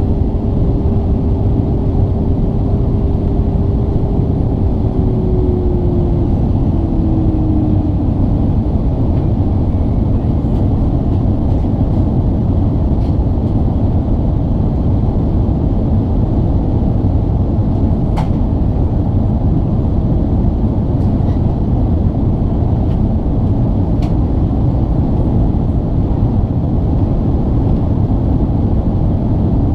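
Cabin noise of an Airbus A380-800 from a window seat: a loud, steady rumble of engines and airflow, with a humming tone that slides a little lower and fades out about six to eight seconds in.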